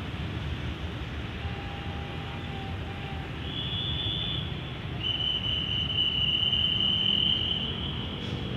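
Steady low rumble of a distant approaching train and station background, with thin high whistling tones coming and going, the longest and loudest from about five to eight seconds in.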